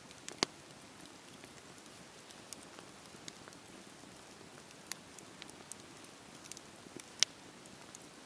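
Wood fire crackling in a fireplace: a soft steady hiss with scattered sharp pops and snaps, the loudest just after the start and about seven seconds in.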